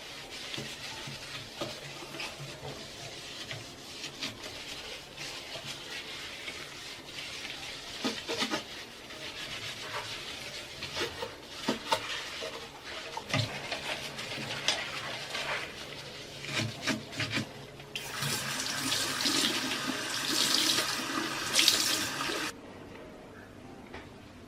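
Running, splashing water with scattered knocks and clatter of things being handled and wiped. About 18 seconds in, a louder, steadier rush of water begins, then cuts off suddenly a few seconds later.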